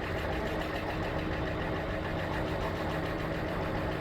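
Bird electric scooter running with a fast, steady rattling knock that sounds like a diesel truck. These scooters don't usually sound like this, so the sound is the sign of a fault in the worn, dirt-covered scooter.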